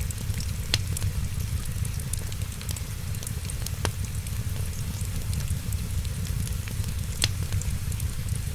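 Wood fire crackling steadily over a low rumble, with three louder sharp pops: about a second in, near four seconds and about seven seconds in.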